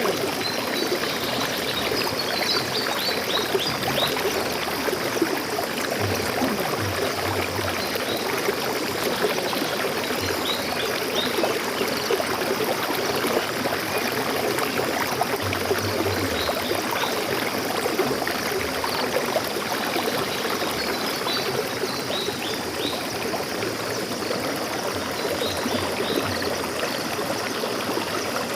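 Steady rush of flowing stream water, with a few short, high bird chirps a couple of seconds in and again about three-quarters of the way through.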